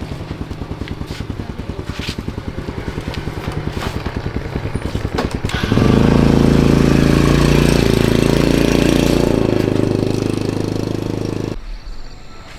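Small motorcycle engine running with an even pulsing beat, then running louder and fuller from about six seconds in. The sound drops away abruptly near the end. The bike has just been repaired for hard starting.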